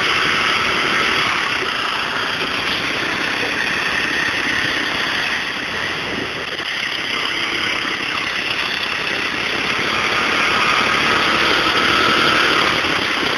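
Murray garden tractor's engine running steadily as it is ridden, with a faint high whine over the drone. It eases off about halfway through and gets louder again near the end.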